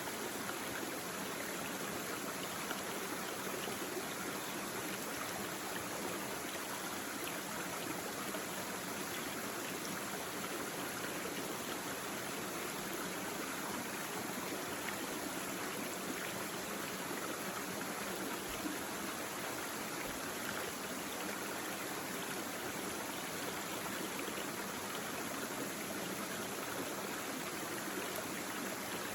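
Small stream babbling steadily, water running and splashing over stones.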